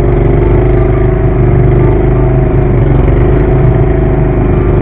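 Garden tractor engine running hard and steady under load while pulling the weight sled, its pitch dipping briefly about three seconds in.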